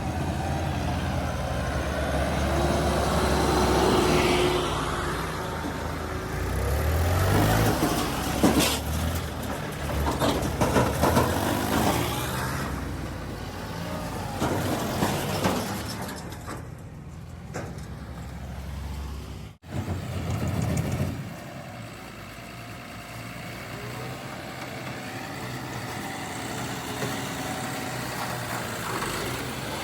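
Heavy diesel vehicle engines running at a mud-loading site, with knocks and clatter from about 7 to 13 seconds in. The sound breaks off abruptly about two-thirds of the way through and a quieter, steady engine sound carries on.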